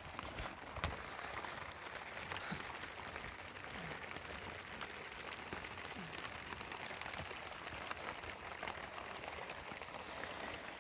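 Steady rain falling, with many small drops ticking throughout.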